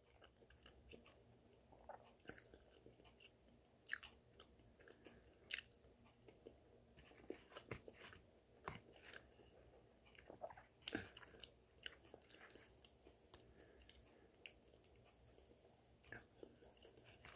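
Faint chewing and mouth sounds of a person eating, with scattered small clicks of a metal fork against a dish.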